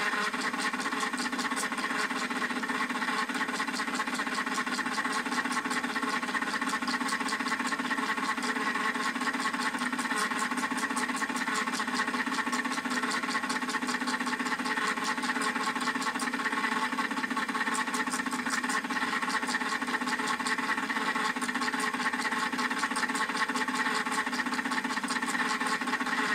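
Battery-powered toy washing machine running, its small electric motor giving a steady whir that holds the same speed throughout.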